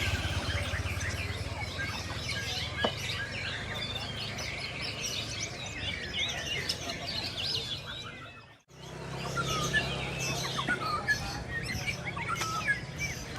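Many caged songbirds singing and chirping at once in a dense, overlapping chorus of short trills and whistles, over a low steady hum. The sound drops out briefly about eight and a half seconds in.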